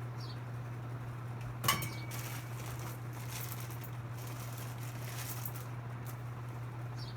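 A metal ceiling fan part set down with one sharp clink that rings briefly, about two seconds in, followed by lighter handling clicks and rustling, over a steady low hum.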